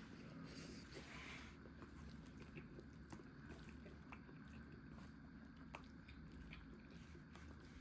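Faint chewing and small mouth clicks of someone eating carbonara pasta.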